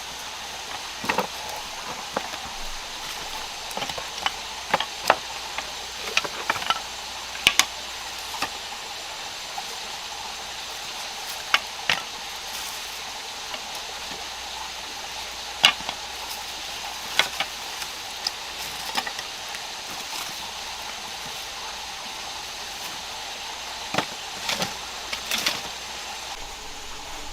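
Scattered sharp knocks and clicks, singly and in small clusters at irregular intervals, over a steady hiss.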